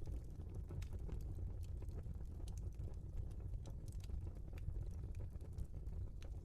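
Log fire burning in a fireplace: a steady low rumble of the flames with irregular sharp crackles and pops from the burning wood.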